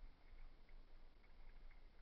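Faint crackling of a wood fire in a fireplace: scattered small ticks and pops every few tenths of a second.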